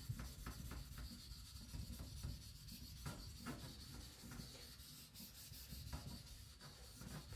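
Faint, irregular strokes of a 75Cr1 carbon-steel knife blade rubbing across a whetstone: light polishing passes.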